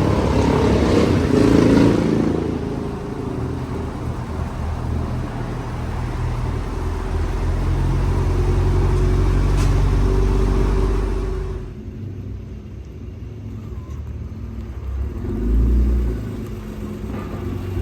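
A car engine running steadily, louder in the first couple of seconds and turning duller and quieter about twelve seconds in, with a brief low swell near the end.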